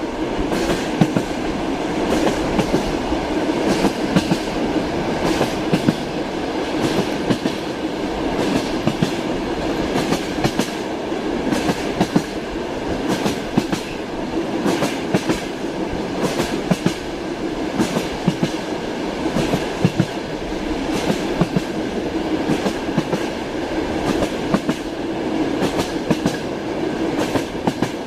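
Passenger train running at speed, heard from inside a sleeper compartment: a steady rumble with the clack of wheels over rail joints, many short knocks at an uneven pace.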